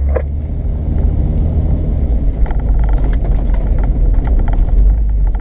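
Off-road vehicle's engine and drivetrain running steadily with a deep rumble, with light rattles and clicks joining about halfway through.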